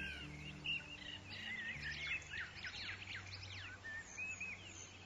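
Birds chirping and whistling, many quick rising and falling calls overlapping. These are bird noises mixed into a song, and the last low notes of its music die away in the first couple of seconds.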